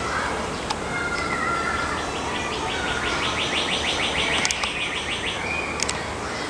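A songbird singing: a few short whistled notes, then a fast trill of evenly repeated notes lasting about three seconds.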